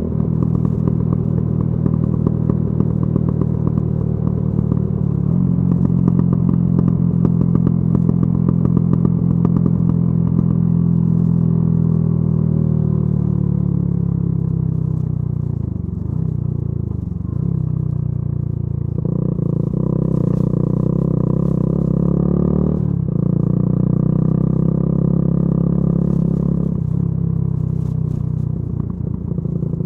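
Yamaha YZF-R125's 125 cc single-cylinder engine running through a modified aftermarket exhaust while riding. The engine note falls as the bike slows about halfway through, then picks up again, changing in steps with gear changes.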